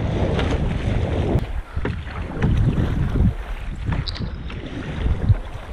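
Water splashing and slapping around a kayak in choppy water, in irregular bursts, with wind buffeting the microphone.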